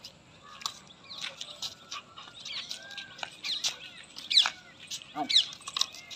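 Birds chirping all through: many short, quick chirps, with a few louder, sharper calls about four and five seconds in.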